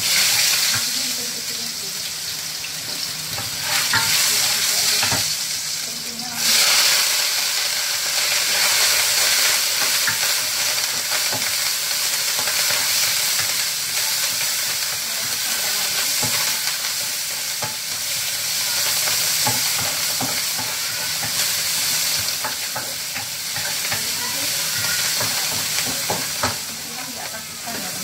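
Food frying in hot oil in a wok, a steady loud sizzle while a wooden spatula stirs and scrapes the pan. The sizzle swells about four seconds in and again at six and a half as fresh ingredients go into the oil.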